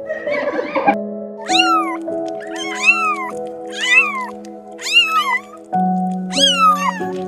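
Kittens mewing, a string of high mews that rise and then fall in pitch, about one a second, over steady background music. A short rough sound comes before them in the first second.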